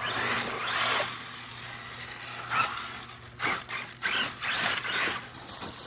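Arrma Mojave EXB RC truck's electric motor and drivetrain whining as the throttle is punched and released, the pitch sweeping up and down, then several shorter bursts.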